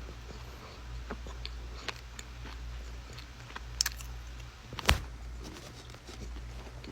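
Dry edible clay being bitten and chewed close to the microphone: scattered small crunches and clicks, with two sharper crunches near the middle.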